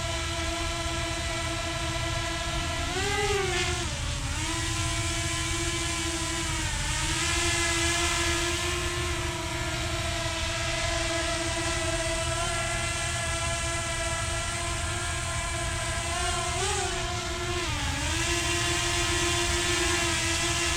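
Small quadcopter drone's motors and propellers whining steadily. The pitch briefly rises and then dips twice, as the motors change speed.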